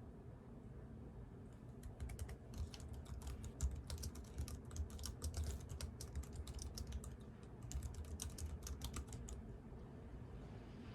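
Typing on a computer keyboard: a quick run of keystrokes starting about two seconds in, with a brief pause, stopping a second or two before the end.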